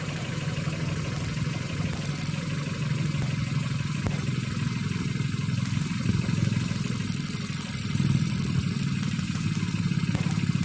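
Car engine with distributor ignition idling steadily, with faint sharp ticks now and then on top.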